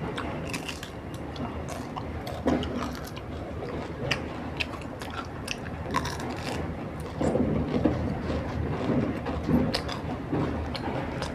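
A person chewing and biting food close to the microphone, with scattered crisp crackles and mouth clicks throughout.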